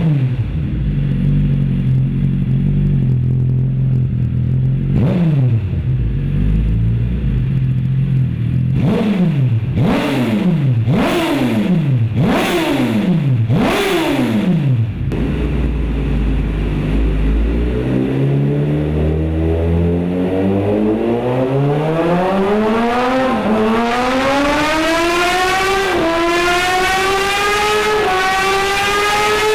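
2009 Suzuki GSX-R1000's inline-four engine, breathing through Two Brothers Racing carbon slip-on mufflers, idling, then revved once and in a quick string of about six throttle blips. It settles back to idle, then pulls up through the gears on the dyno, the pitch climbing steadily with two brief dips at upshifts near the end.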